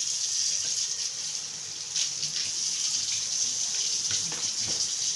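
Water running steadily from a tap into a sink, a continuous hiss that cuts off near the end.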